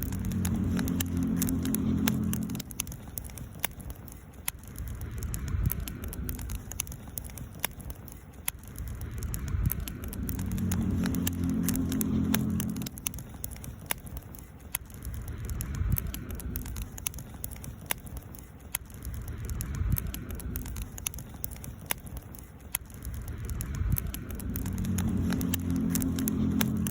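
Campfire burning, with scattered sharp crackles and pops from the wood over a steady soft hiss. A low hum swells up and fades three times.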